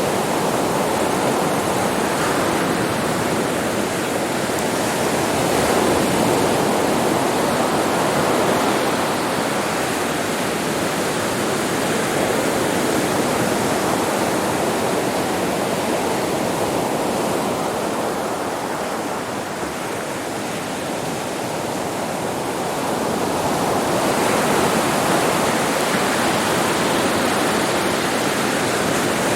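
Sea waves washing onto a beach: a continuous rushing wash of surf that eases for a few seconds past the middle and swells again near the end.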